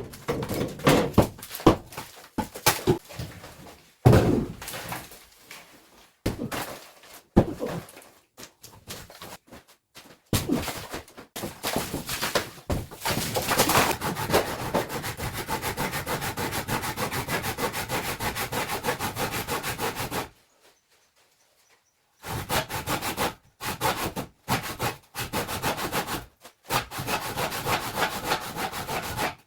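Wall demolition in an old clay house: irregular knocks and thuds of wood and clay being struck and pulled loose, then a long stretch of steady, rapid sawing or scraping strokes, broken once by a short silence and resuming in bursts near the end.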